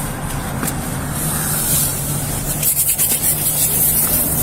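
A car engine running with a steady low hum, heard from close by, with rubbing and scraping on the microphone and a few quick ticks about three seconds in.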